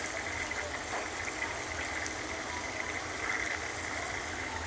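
Chopped onions and tomatoes frying in oil in a steel pot: a steady sizzling hiss over a low, even hum.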